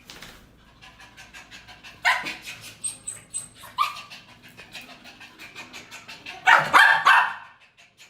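A dog barking in short bursts, with the longest and loudest burst near the end.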